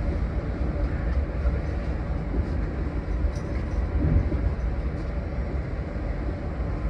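Cab interior of a 115 series electric multiple unit pulling slowly out of a station: a steady low rumble of wheels and traction motors, with a faint hum and a few light knocks.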